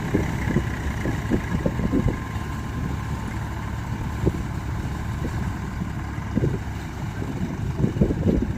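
Tractor diesel engine running, with irregular low thumps throughout, more of them near the start and near the end.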